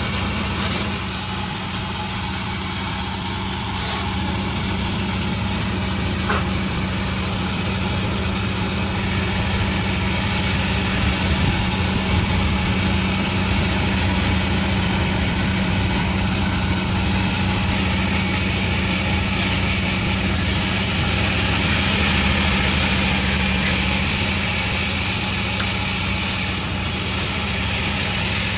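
Sawmill machinery running steadily: a continuous engine drone with saw noise over it, a little louder for a few seconds about two-thirds of the way through.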